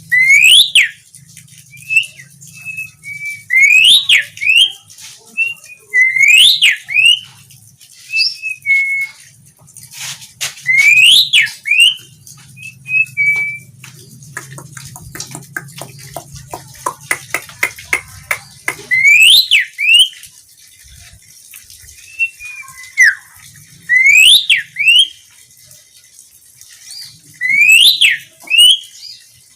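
Asian pied starling (jalak suren) singing: loud, rising whistled notes repeated every few seconds, with short chattering notes between them and, in the middle, a run of rapid dry clicks.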